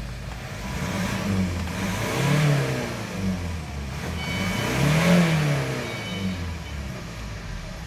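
2015 Mazda CX-5's SH 2.2 four-cylinder diesel engine idling and being revved twice, the pitch climbing and falling back to idle each time. It runs well, with no smoke.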